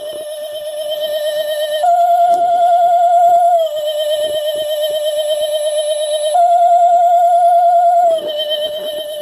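Electronic spooky sound from a battery-operated Halloween witch decoration's small speaker: a wavering, theremin-like tone that alternates between a higher and a lower note, each held about two seconds, sliding down from high to low.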